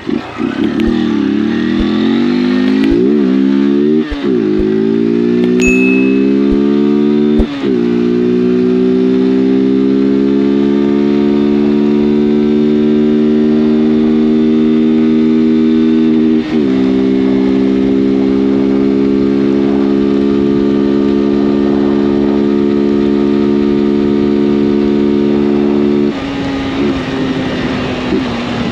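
Honda CG 160 Fan single-cylinder four-stroke motorcycle engine, run without its air filter. It gives two quick revs a few seconds in, then pulls under load through the gears: the note drops sharply at each shift, about a quarter and just over halfway through, then climbs slowly. The throttle closes near the end and the engine note falls away.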